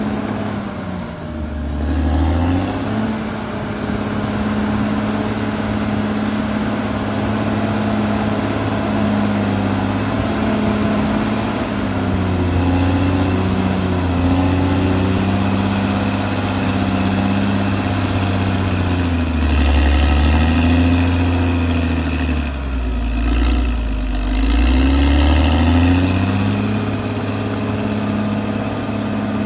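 Caterpillar D6R XL bulldozer's diesel engine running under varying load while it pushes and levels mud. Its pitch sags and recovers several times, most deeply from about twenty to twenty-five seconds in.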